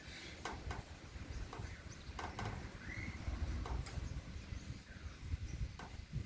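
Wind buffeting the microphone with a steady low rumble, and scattered irregular clicks. A bird gives one short arched call about three seconds in.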